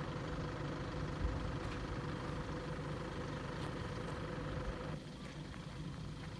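A vehicle engine running steadily, dropping off and growing quieter about five seconds in.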